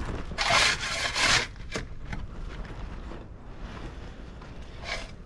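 A shovel scooping and scraping loose rock, with two quick loud scrapes in the first second and a half, then quieter scuffing, and another scrape near the end.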